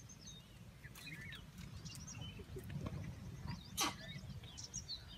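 Birds chirping and calling, many short rising and falling notes, over a steady low rumble. One brief burst of noise comes about four seconds in.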